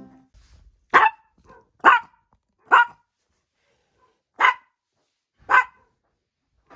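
A pet dog barking five short, sharp barks, the first three about a second apart, then a pause, then two more.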